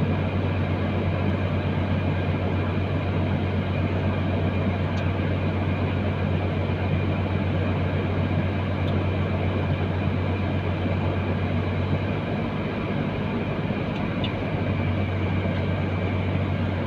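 Truck engine running with a steady low drone, easing slightly for a couple of seconds about twelve seconds in.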